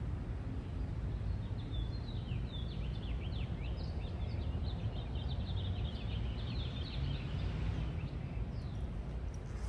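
A bird chattering in a rapid, irregular string of short descending chirps for several seconds, over a steady low background rumble.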